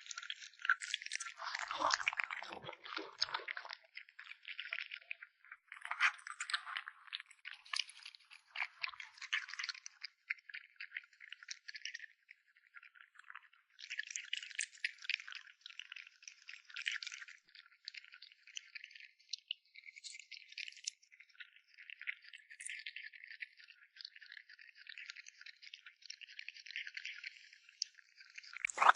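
Kitten chewing and crunching on raw meat: rapid wet, crackly clicks in runs, broken by a couple of short pauses.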